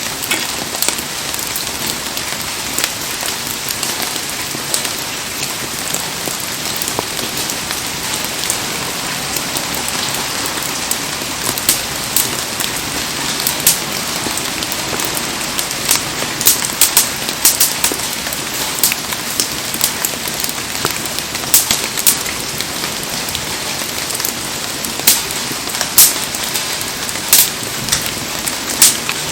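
Heavy rain falling steadily in a dense hiss, with frequent sharp pops and taps on top that come more often in the second half.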